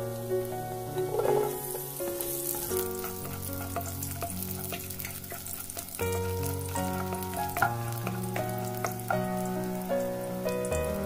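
Sliced garlic and ginger sizzling in hot oil in a nonstick wok, stirred with a spatula that clicks and scrapes against the pan, over soft background music.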